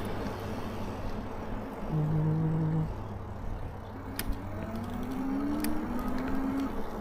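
Wind and tyre noise while riding an e-bike, with a short steady hum about two seconds in and a slowly rising whine from about four seconds in, and a couple of light clicks.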